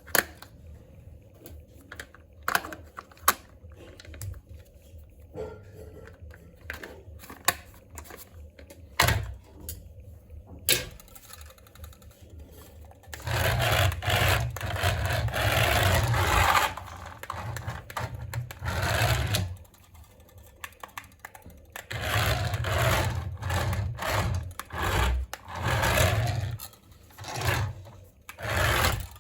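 Clicks and handling knocks, then a mini RC toy helicopter's small electric motor and rotor whirring in stretches of several seconds, starting and stopping, the longest about six seconds.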